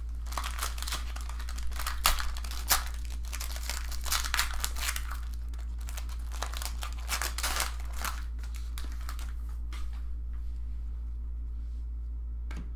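Trading-card pack wrappers crinkling and tearing as card packs are ripped open, with a couple of sharper snaps about two seconds in, busiest for the first eight or nine seconds and then quieter. A steady low hum runs underneath.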